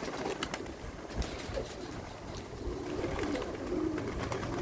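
Domestic pigeons cooing, a low wavering coo that sets in about halfway through and carries on to the end.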